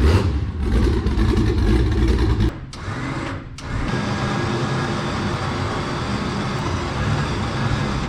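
A car engine running, with a dense pulsing rumble for about two and a half seconds. It then breaks off abruptly and gives way to a steadier engine drone with even road-like noise.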